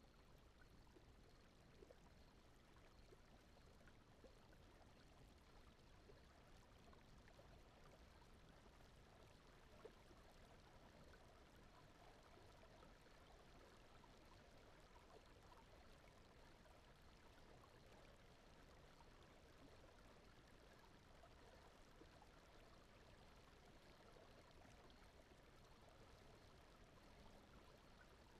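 Near silence: a faint, steady rushing noise bed.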